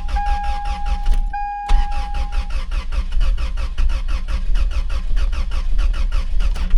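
Starter cranking the 2000 Toyota Tacoma's engine with one ignition coil unplugged; it stumbles with a fast, uneven chugging as only about one cylinder fires, then stops near the end. A steady electronic warning tone sounds over the first couple of seconds.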